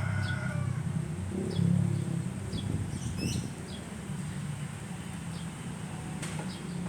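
Small birds chirping in short, repeated high calls over a low outdoor rumble that eases off a little past halfway, with a sharp click about six seconds in.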